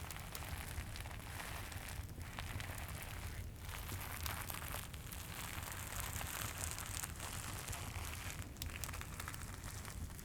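Crinkly wrapper on a Santa figure being squeezed and rubbed close to the microphone: continuous dense crinkling with brief pauses, over the low crackle and rumble of a fireplace.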